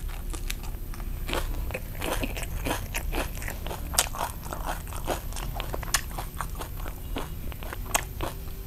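Close-miked chewing of a mouthful of Vietnamese rice-paper roll filled with nem nướng (grilled pork sausage), fresh herbs and crispy fried rice paper, in many short crisp crunches.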